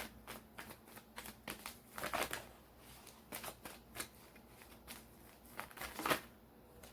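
Tarot cards being shuffled by hand: a run of soft, irregular card clicks and flicks, with a louder flurry about two seconds in and another near six seconds.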